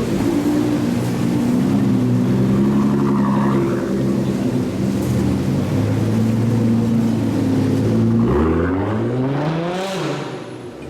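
Supercar engine running at low, steady revs, then revving up sharply about eight seconds in, with a rising whine, before the sound drops away near the end as the car pulls off.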